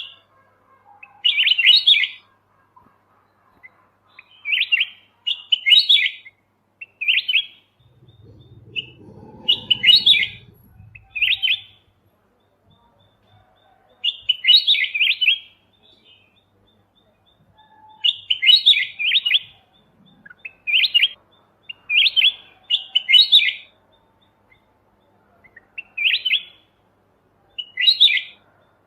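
Kutilang emas (white-eyed golden bulbul) singing: short, bright chirping phrases repeated about every one to two seconds with brief pauses between them.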